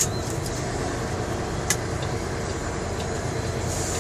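Dump truck's engine running steadily, heard from inside the cab, with two sharp clicks, one at the start and one under two seconds in. A hiss rises in near the end.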